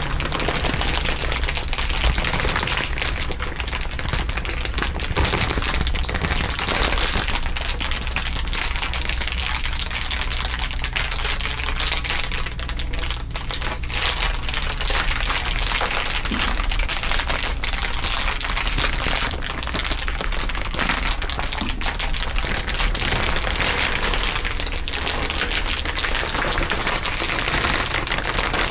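Dense, rapid crinkling crackles, several crinkle tracks layered on top of each other, over a steady low hum.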